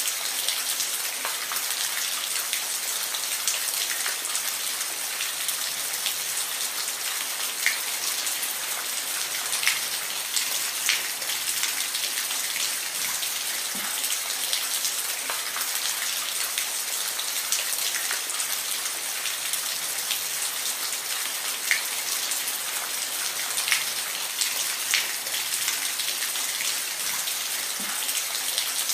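Steady rain falling, a constant high hiss with individual drops ticking sharply on a surface at irregular moments.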